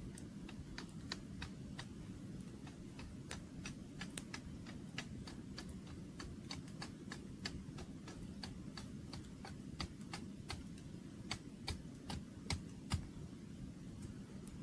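Wood campfire crackling: irregular sharp pops and snaps, a few each second, a handful louder near the end, over a low steady rush.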